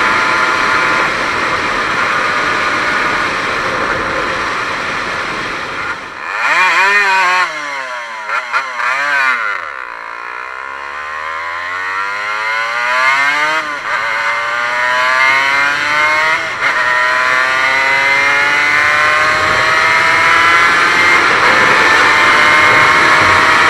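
An Aprilia RS 125's single-cylinder two-stroke engine under way, at first running steadily with wind noise. About six seconds in, the wind drops and the throttle is blipped several times as the bike slows. The bike then accelerates hard, the engine pitch rising and dropping back at two gear changes, while the wind noise builds again.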